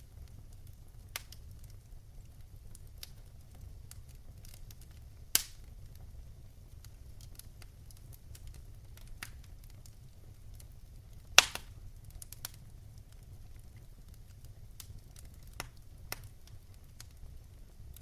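Wood fire crackling in a fireplace: scattered sharp pops and snaps over a low, steady rumble, with two louder pops, about five seconds in and about eleven seconds in.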